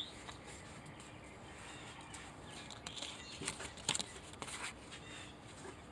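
Faint outdoor ambience with birds chirping, and a few sharp light clicks or knocks about three to four and a half seconds in.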